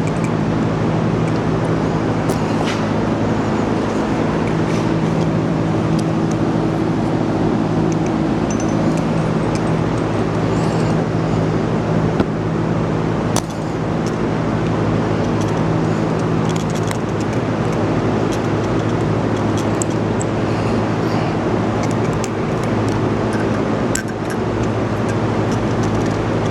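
Steady mechanical hum of running machinery, with several fixed low tones over a constant rushing noise, and a few faint light clicks from small parts being handled.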